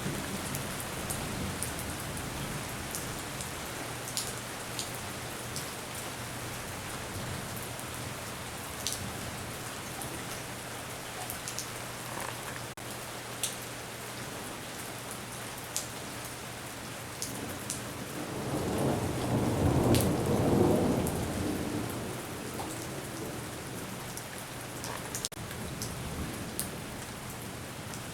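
Steady rain with scattered drops striking a surface close by. A roll of thunder swells and fades about two-thirds of the way through.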